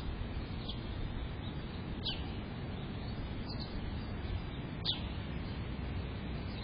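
Short, high bird chirps, each dropping quickly in pitch, repeated four times at an even pace of about one every second and a half, over a steady low background noise.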